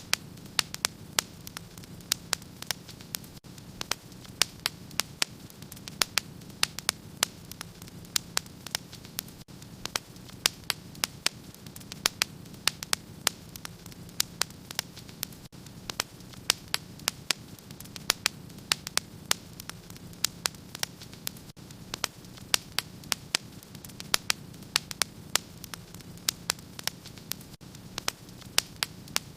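Wood fire crackling, with frequent sharp irregular pops, several a second, over a steady low rumble.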